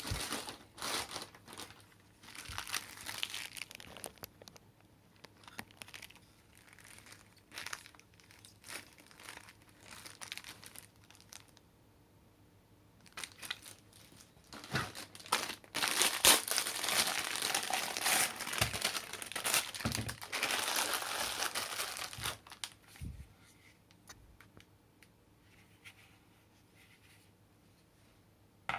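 Packaging crinkling and tearing as it is handled and pulled open, in irregular rustling bursts with small clicks, busiest and loudest in the middle.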